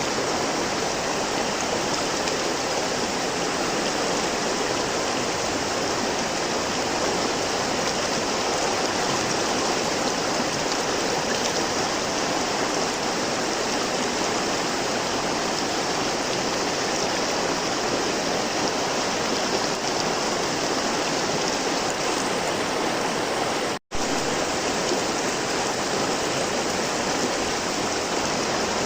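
River water flowing steadily, an even rushing of current over stones. The sound cuts out completely for a split second once near the end.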